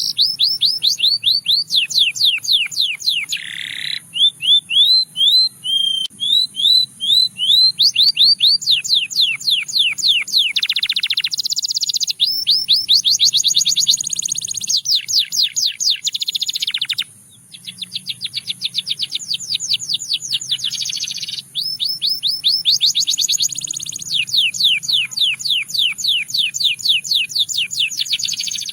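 Canary singing a long song of fast, evenly repeated trills, changing from one trill to the next every second or two, with one brief pause about two-thirds of the way through.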